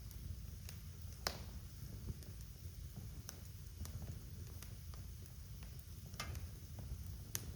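Wood fire crackling in a fireplace: a steady low rumble of burning with scattered sharp pops and snaps, the sharpest about a second in and two more near the end.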